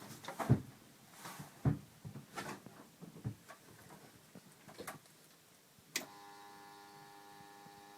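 Scattered knocks and clicks of handling at the car, then about six seconds in a click and a faint steady electrical hum of several even tones as the DeLorean's ignition is switched on before cranking.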